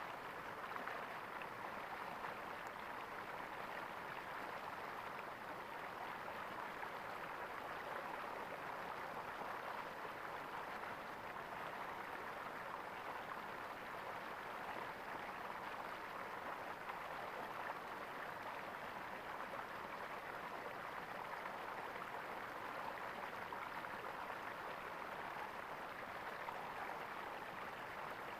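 Water in a stream gurgling steadily, an even, unbroken rush.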